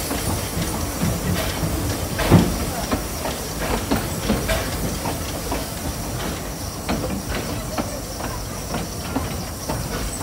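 Carriages of a narrow-gauge steam train rolling past close alongside: a steady rumble and hiss broken by irregular clicks and knocks of wheels and couplings, with one sharper clank about two seconds in.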